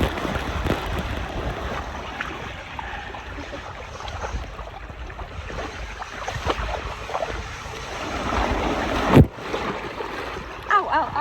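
Steady rushing water noise with wind buffeting the microphone, swelling louder about eight seconds in and cutting off abruptly about a second later; faint voices in the background.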